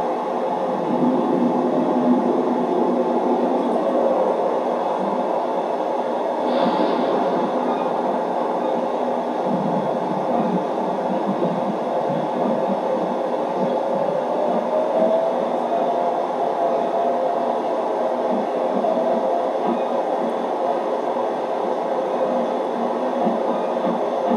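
Steady, continuous rumble of a moving train on the rails, with a faint steady tone over it in the second half.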